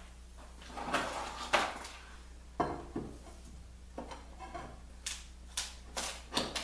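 A series of knocks and clinks from hard objects being handled and set down, about a dozen irregular sharp hits with a louder knock about one and a half seconds in, over a steady low hum.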